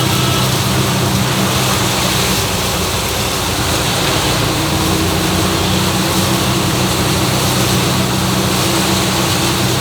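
A vehicle engine idling steadily under a constant, even hiss of heavy rain.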